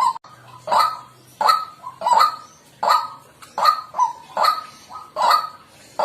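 White-breasted waterhen calling: a loud, harsh call repeated evenly, about every three-quarters of a second, some calls followed by a shorter second note.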